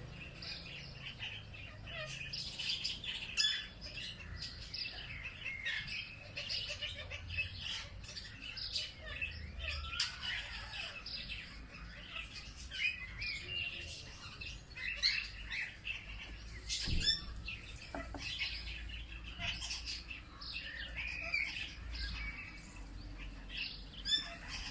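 Several wild birds chirping and singing together in overlapping short calls and quick trills, over a faint low rumble.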